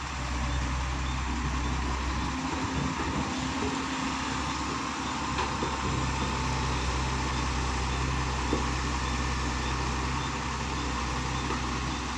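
Komatsu PC130 excavator's diesel engine running steadily under load while it works loading soil into a truck. Its low engine note drops away for about three seconds a couple of seconds in, then returns.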